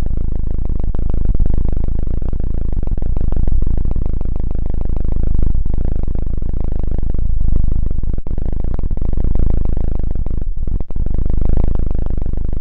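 Dense, low rumbling rubbing right on the ears of a KU100 dummy-head binaural microphone, an ASMR ear-massage trigger. It swells in slow waves about every two seconds, with two brief breaks near the end.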